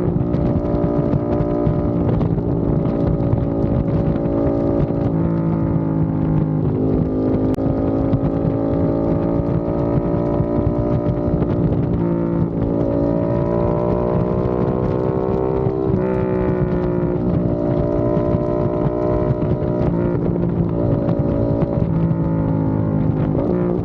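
Aprilia RS660 Factory's parallel-twin engine through a non-resonated Mivv X-M1 Evo exhaust, under way: the engine note climbs slowly and then drops back several times, as with gear changes.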